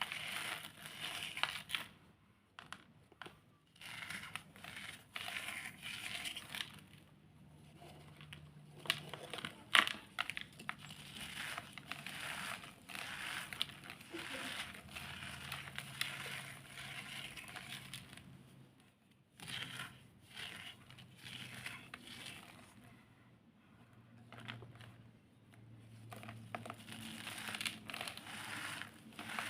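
Dried, reformed cornstarch chunks being crushed and crumbled by hand, making crisp crackling crunches in uneven spells with brief pauses between them.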